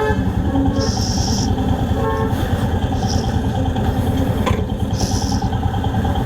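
Motorcycle engine running steadily in slow traffic, with two short horn toots from nearby vehicles, one at the start and one about two seconds in.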